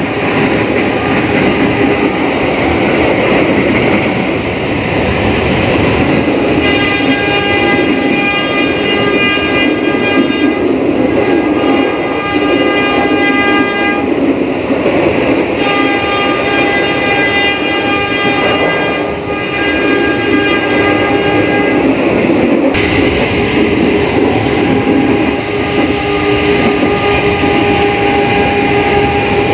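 Passenger train running at speed, heard from the vestibule between coaches: a steady rumble with wheel noise on the rails. A locomotive horn sounds two long blasts of about seven seconds each, the first starting about six seconds in and the second after a short break, ending abruptly.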